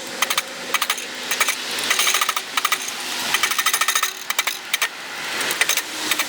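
Hammer striking a hot railroad spike on the anvil in quick runs of blows, drawing out the forged elephant's trunk.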